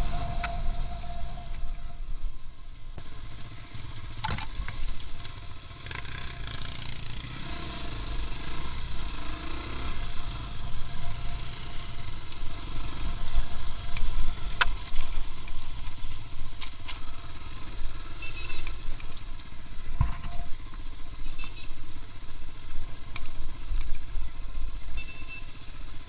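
A vehicle engine running while driving over rough ground, a steady low rumble with a few short knocks and clatter along the way.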